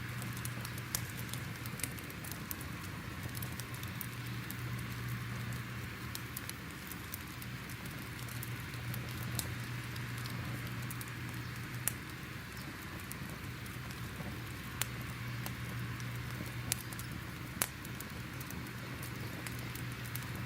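Fire crackling: a steady hiss with irregular sharp pops and crackles, a few louder pops scattered through, over a steady low hum.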